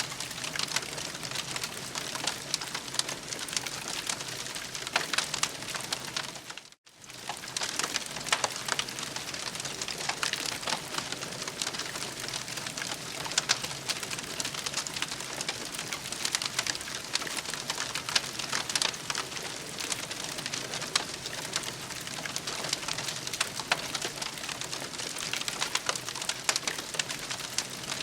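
Campfire crackling steadily with many small sharp pops and snaps. The sound cuts out for a moment about seven seconds in, then resumes.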